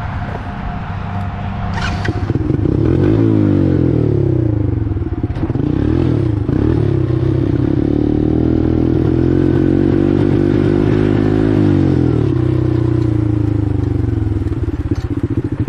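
1986 four-wheeler (ATV) engine under way. About two seconds in it gets louder, and its pitch climbs and dips several times as the throttle and gears change. Near the end it falls back to a lower, pulsing run.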